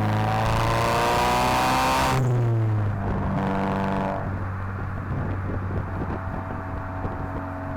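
2016 VW Mk7 GTI's turbocharged 2.0-litre four-cylinder, breathing through a 3-inch downpipe and non-valved exhaust, accelerating with a rising pitch and a loud rush. About two seconds in, an upshift drops the pitch. It then settles to a steadier, quieter drone as the throttle eases.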